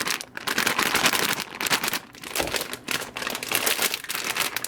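Sliced vegetables sizzling and crackling in hot vegetable oil in a frying pan, a dense irregular spatter of pops.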